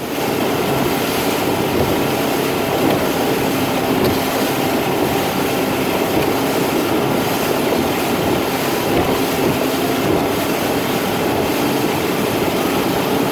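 Motorboat running under way: a steady engine drone under loud rushing wind and water noise.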